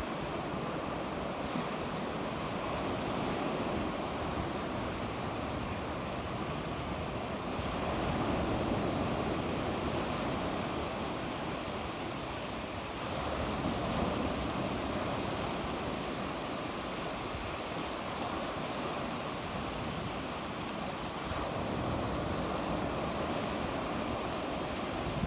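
Sea waves breaking and washing on the shore, a steady wash of surf that swells and eases every few seconds, with some wind on the microphone.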